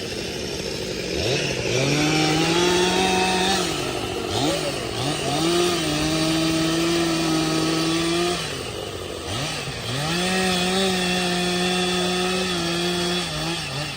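Stihl MS 462 C-M two-stroke chainsaw running at high revs through firewood cuts, its engine pitch dipping and recovering about two, four and a half, and nine and a half seconds in.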